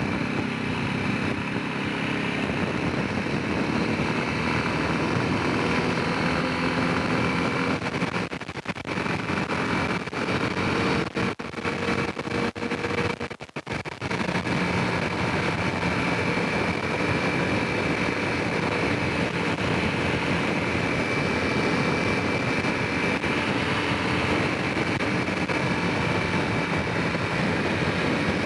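Honda Rincon 650 quad's single-cylinder four-stroke engine running under way. The sound holds steady except for several short dips in level about a third of the way in.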